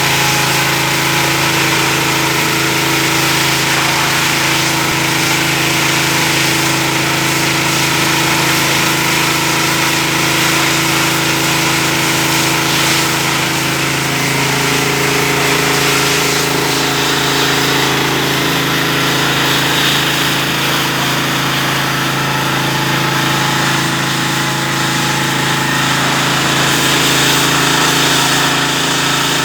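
Truck-mounted concrete pump's diesel engine running steadily, with a slight change in its tone about halfway through.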